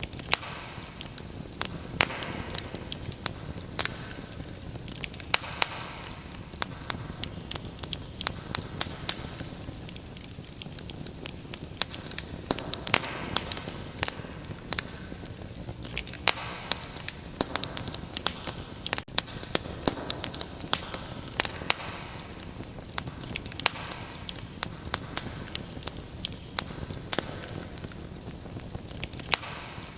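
Wood fire crackling: irregular sharp pops and snaps, many a second, over a steady low rush of burning.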